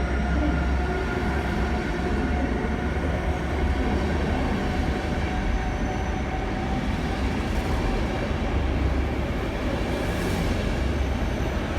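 Train running through a station: a steady, loud rumble and rolling noise, with faint whining tones above it.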